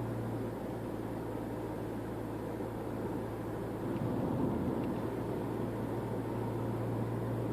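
2013 Toyota RAV4 idling, heard in the cabin: a steady low engine hum under an even hiss of air. The hum briefly changes about four seconds in.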